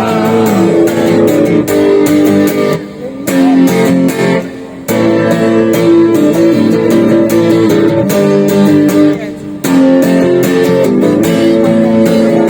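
Guitar strummed in a steady rhythm between sung lines, playing the chords of the song, with brief pauses between chord changes.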